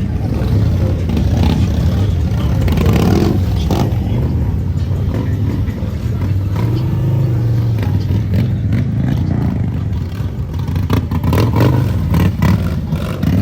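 A car engine running and revving, its pitch rising and falling back around the middle.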